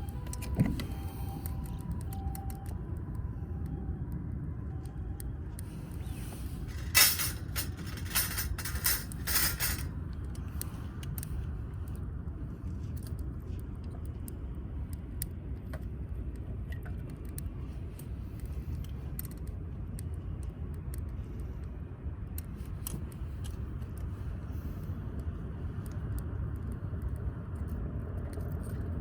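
Steady low outdoor rumble, with a short run of sharp crackling clicks about seven to ten seconds in.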